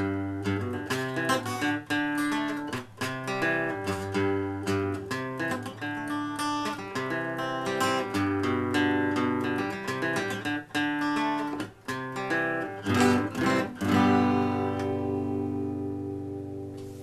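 Steel-string acoustic guitar played solo: a run of picked notes, then a few strummed chords near the end, the last one left to ring and fade away.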